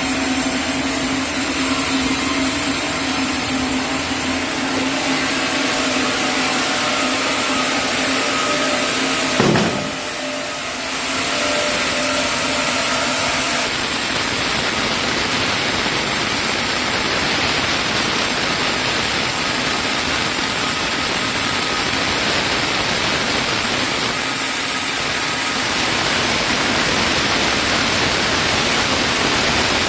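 Sawmill machinery running steadily with a hum, then a brief sharp sound about nine and a half seconds in, after which the hum gives way to a broad, steady hiss.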